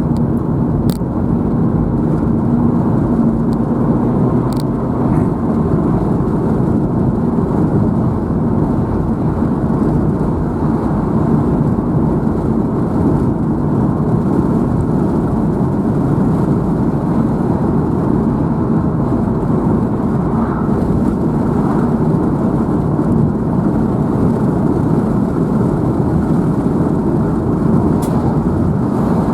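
Steady driving noise of a car heard from inside the cabin: engine and tyre rumble on the road, with a few faint ticks.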